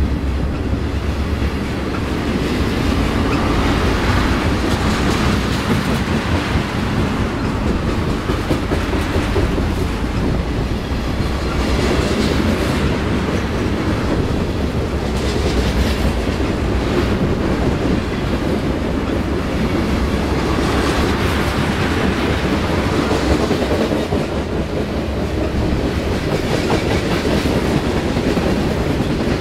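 A loaded freight train of tank cars rolling past close by at speed. Steel wheels run steadily on the rail, with recurring clickety-clack and clatter as the trucks pass.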